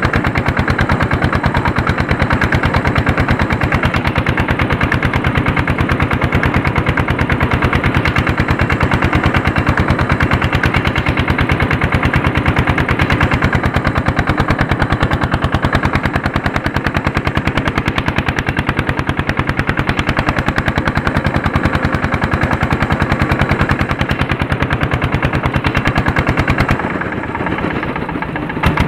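Tractor's Andoria S-231 diesel engine running under load while harrowing, a fast, even chugging. It drops quieter for a moment near the end, then picks back up.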